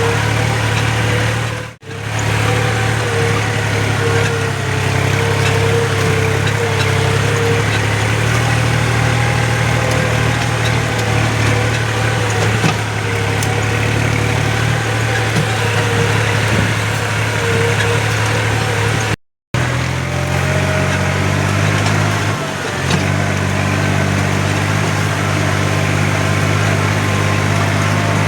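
New Holland tractor's diesel engine running steadily. The sound cuts out briefly twice, once near the start and once about two-thirds of the way in.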